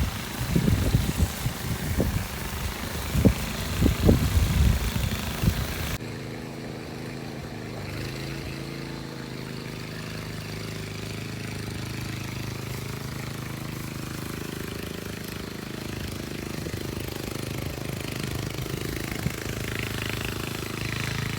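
An engine running steadily at an even speed, preceded by about six seconds of loud, irregular low rumbling and thumps that stop abruptly.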